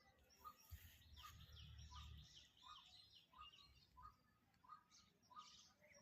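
Faint bird calls: short notes repeated about twice a second, mixed with higher, thinner chirps.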